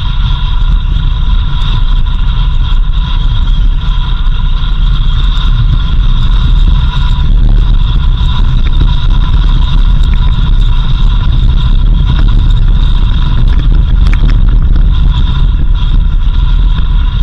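Vehicle driving along a dirt road: a loud, steady low rumble of engine, tyres and road, with a faint steady high whine running over it.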